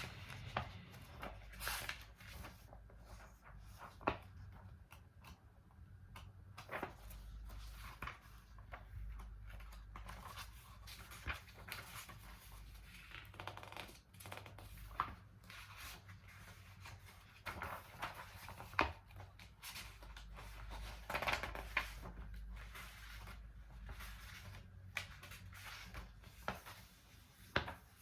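Scattered soft clicks and brief rustles of small handling sounds, irregular and a few seconds apart, over a low steady hum.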